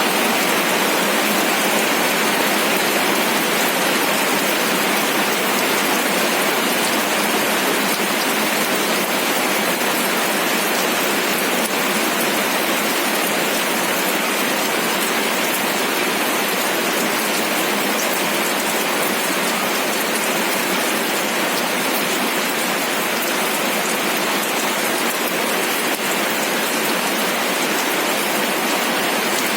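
Steady rain falling, a dense even hiss of many drops with a few sharper drop ticks, unchanging throughout.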